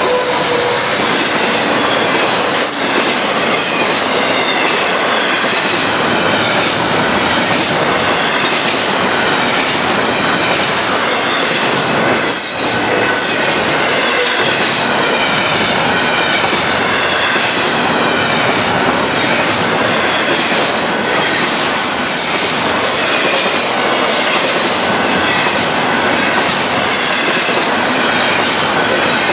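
Double-stack container well cars of a freight train rolling past at close range: a loud, steady rumble and rattle of steel wheels on rail, with sharp clicks now and then as wheels cross rail joints and thin high squeals from the wheel flanges.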